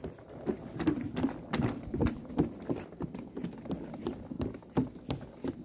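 Footsteps of people walking along a forest path, a steady, slightly uneven tread of about two steps a second.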